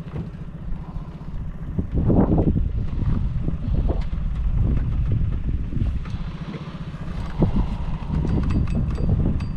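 Small boat's engine running steadily, growing louder about two seconds in as the boat is swung around, with wind buffeting the microphone.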